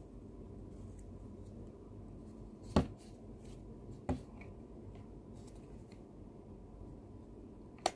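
Three short, sharp clicks over a faint low hum, likely buttons being pressed on a Kisonli KS-1981 Bluetooth speaker. The last click comes just before the end.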